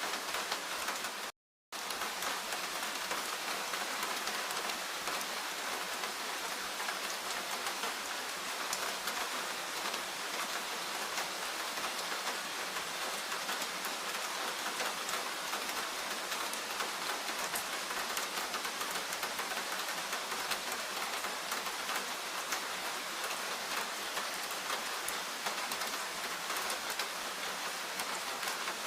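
Steady rain falling, an even hiss with many fine drop patters through it. The sound cuts out completely for a fraction of a second about a second and a half in.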